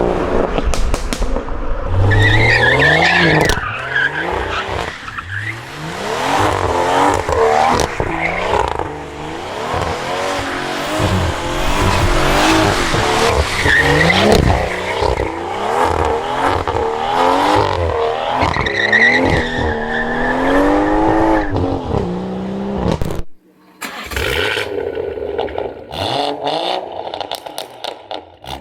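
Tuned BMW B58 turbocharged straight-six revving up and down repeatedly while the rear tyres squeal and skid, as in donuts and powerslides. About 23 seconds in the sound cuts to a quieter running engine with a string of short sharp cracks from the exhaust.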